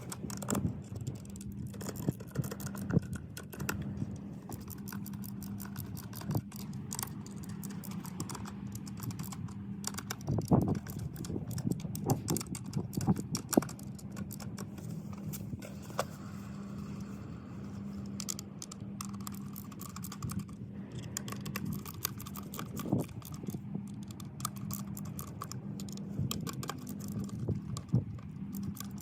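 Irregular small metal clicks and clinks of a skate T-tool working the bolts and nuts of new Venture skateboard trucks as they are tightened, over a steady low hum.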